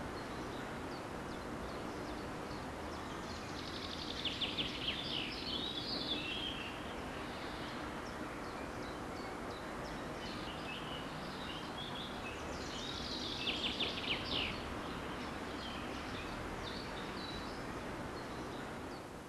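A songbird singing two short songs about nine seconds apart, each a quick run of chirpy notes, over a steady outdoor hiss.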